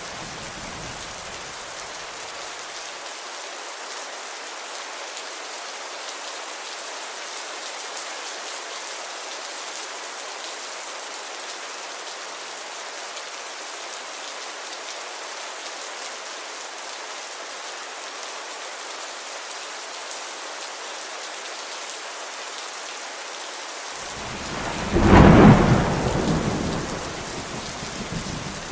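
Steady rain falling, an even hiss. A low rumble fades out in the first couple of seconds, and near the end a loud thunderclap breaks and rumbles away over about three seconds.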